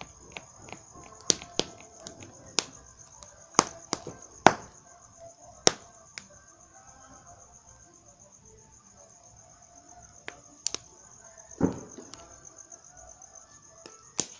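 Steady high chirring of crickets, broken by about a dozen sharp, irregular pops and cracks, one near the end with a deeper boom.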